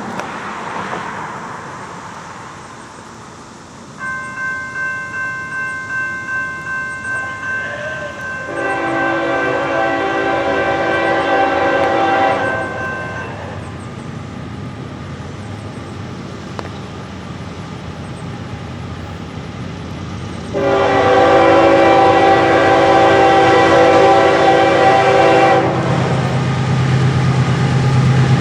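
Norfolk Southern GE ES44AC locomotive sounding two long chords on its air horn, each about five seconds. Before the first blast a steady ringing bell pulses about twice a second, and near the end the low rumble of the approaching train grows.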